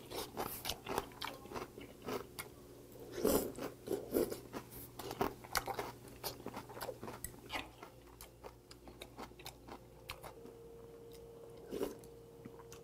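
Close-up chewing and crunching of mouthfuls of doenjang mulhoe, cold soybean-paste fish soup with raw damselfish and crisp raw vegetables. The crunching is dense at first and thins out in the last few seconds.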